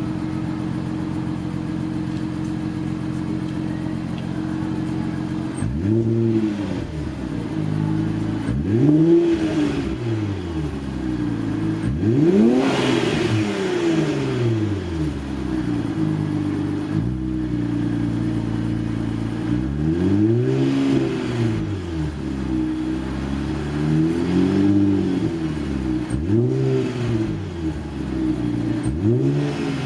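Infiniti Q50 3.0t's twin-turbo V6 idling steadily through its catback exhaust, then blipped about seven times, each rev rising and falling back to idle within a couple of seconds. The biggest rev comes about twelve seconds in.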